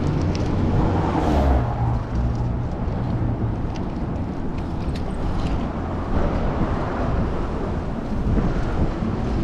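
Steady low rumble of wind on the microphone of a moving bicycle, mixed with city car traffic.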